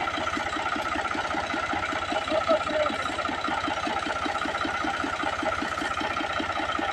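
Tractor diesel engine running at a steady idle, with an even low knock about six or seven times a second.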